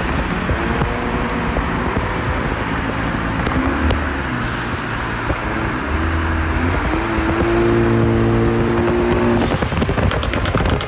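Car engines running and revving, with one engine's pitch climbing in steps a little past halfway, holding high for a couple of seconds, then dropping off near the end.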